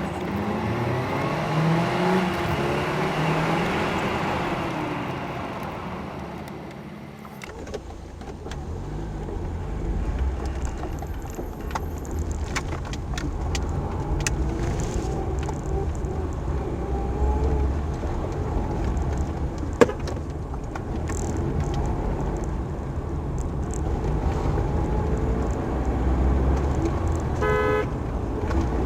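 Motor vehicle sound: an engine whose pitch rises and falls for the first several seconds, then a steady low rumble with scattered clicks. A single sharp click comes near the middle, and a short horn-like tone near the end.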